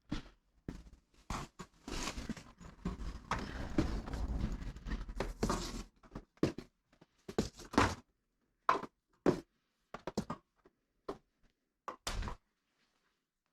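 Tools and engine parts being handled at a workbench: a few seconds of scraping and rustling, then scattered clicks and knocks.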